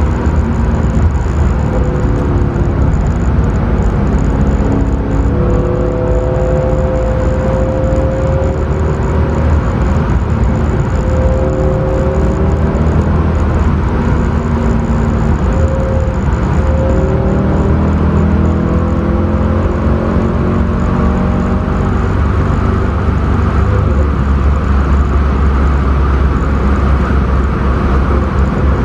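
Mercedes C63 AMG's 6.2-litre V8 heard from inside the cabin at track speed. The engine note rises and falls in pitch with the driving over a steady low rumble of road and wind noise.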